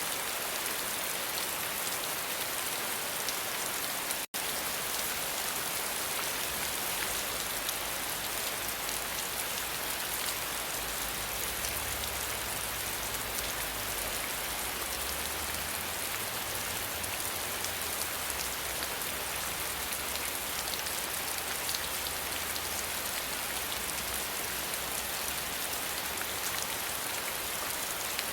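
Steady rain falling, a dense hiss of pattering drops, with a split-second cut to silence about four seconds in.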